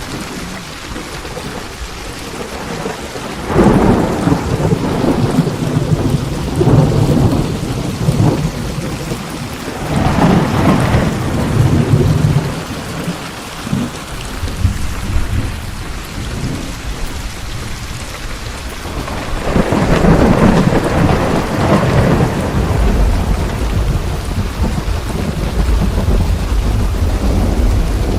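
Steady rain falling through a thunderstorm, with rolling thunder rumbling up loud several times: about three and a half seconds in, again around ten seconds, and most strongly around twenty seconds, with a deep rumble building again near the end.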